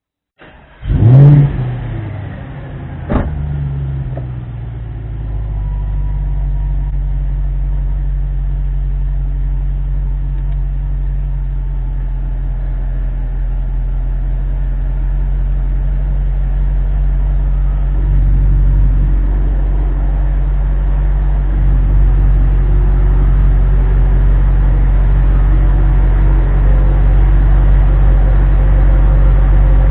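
Audi RS5's 4.2-litre V8 through a valved 2.75-inch cat-back exhaust starting up: a short crank and a loud rev flare just over a second in, a sharp click about three seconds in, then a steady low idle.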